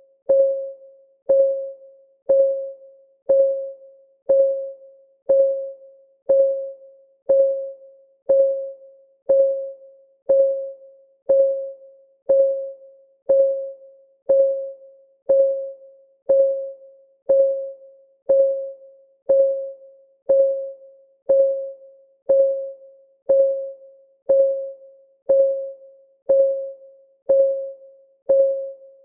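Countdown timer's clock-ticking sound effect: a short, pitched tick once a second, each fading away quickly, in a perfectly even rhythm.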